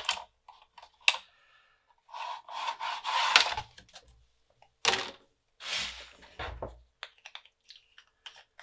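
Hands handling a Cumana floppy drive's mechanism and metal parts: scattered clicks, two scraping rubs, a sharp click about five seconds in and a dull thud soon after, then a few light ticks.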